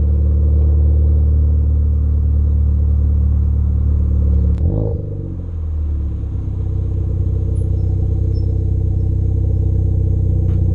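Ford Focus ST engine and exhaust running at steady revs. About halfway through there is one sharp click, the note drops and falls briefly, then it settles back to a steady drone.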